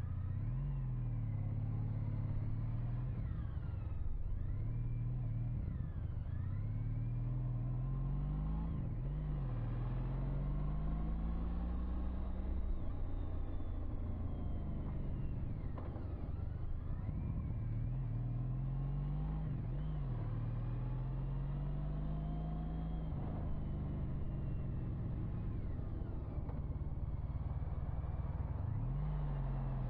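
Motorbike engine heard from the saddle, its pitch rising and then dropping several times as it accelerates and shifts gears, over a steady low rumble.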